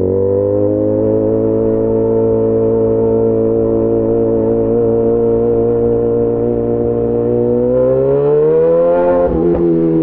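Yamaha XJ6 S motorcycle's inline-four engine through an SC-Project aftermarket exhaust, running at a steady pitch while cruising, then revving up for about a second and a half near the end before the pitch falls back.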